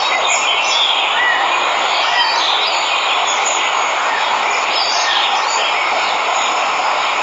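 Steady rush of a waterfall, with birds chirping through it.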